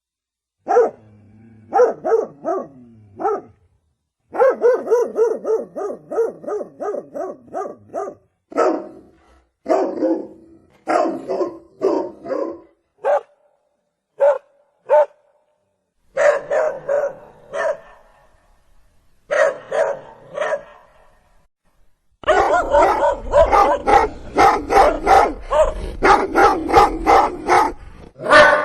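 Dogs barking: single barks and quick runs of barks, with short silent breaks between runs. A low rumble sits under the last, densest run of barks.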